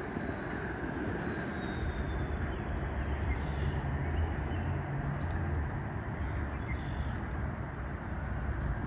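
Steady low rumble of passing street traffic, with a deeper engine hum swelling through the middle.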